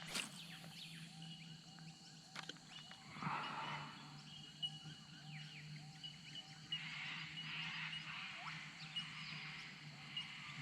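Wild birds chirping and calling, faint, with many short repeated chirps throughout and a single sharp click at the very start.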